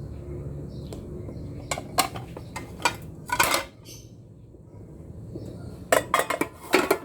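Kitchen dishes and utensils clinking and clattering in two bursts, one about two seconds in and another near the end, over a low steady hum.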